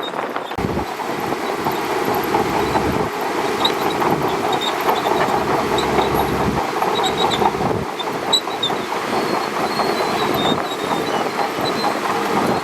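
Shantui DH17C2 crawler bulldozer running, its diesel engine rumbling under the clatter of steel tracks, with short high squeals from the track gear again and again.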